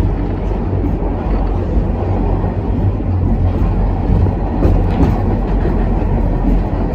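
R46 subway train running at speed through a tunnel, heard from inside the front car: a steady low rumble of steel wheels on rail and traction motors, with a few faint clicks near the middle.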